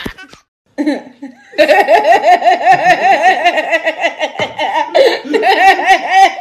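A woman laughing in a long unbroken run of quick, rhythmic "ha-ha" pulses that starts after a brief silence about a second and a half in.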